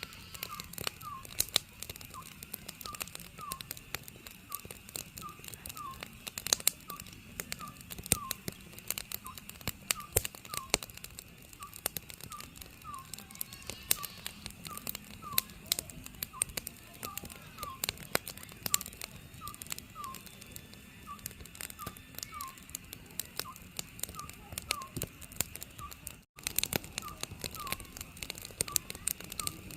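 Oriental scops owl calling, short notes repeated about twice a second, over a wood fire crackling with sharp pops. The sound cuts out for an instant near the end.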